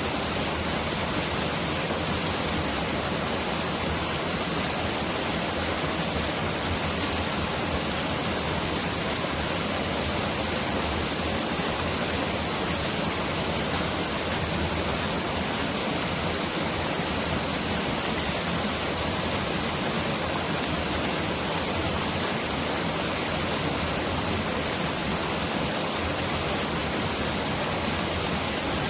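Mountain valley stream rushing steadily over rocks, a dense, even water noise that sounds like heavy rain.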